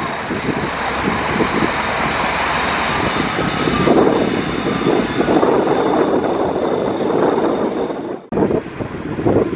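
Heavy diesel earthmoving machinery, a dump truck and bulldozer, running and working under load. The sound swells about four seconds in and breaks off for an instant near the end.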